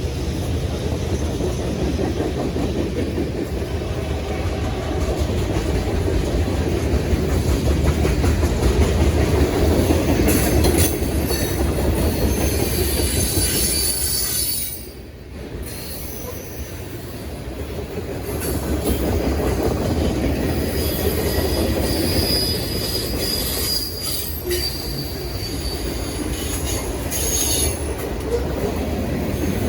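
Long freight train rolling slowly up a grade, with a steady low rumble and the cars' wheels squealing and clicking over the rail joints.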